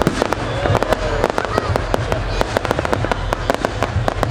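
Fireworks display: a rapid, continuous run of sharp bangs and crackles, several each second, over a low rumble.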